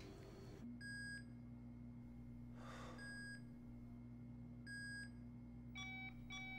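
Bedside patient monitor beeping, a single beep about every two seconds, over a low steady hum. Near the end it switches to a faster, higher, repeating alarm beep, signalling the patient's condition worsening.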